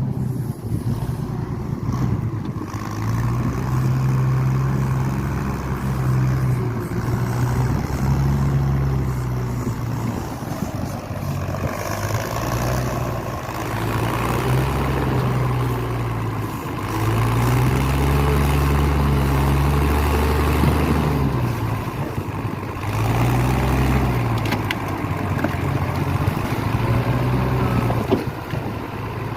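Forklift engine running, its revs rising and falling again and again as it drives.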